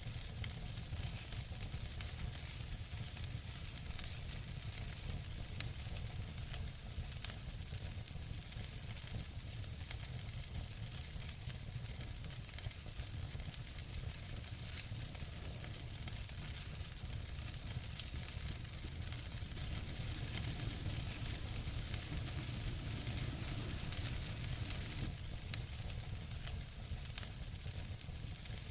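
Wood fire burning in a fireplace: a steady hiss and low rumble with scattered sharp crackles and pops, a few louder pops standing out here and there.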